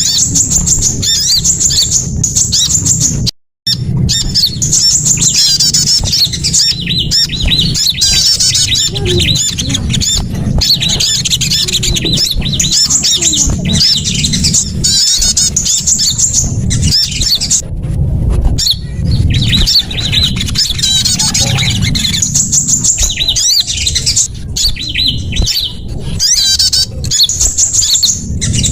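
Bird-lure recording of small songbirds calling: dense, rapid high-pitched chirps and trills from several birds at once over a steady low rumble, broken by a brief dropout about three and a half seconds in.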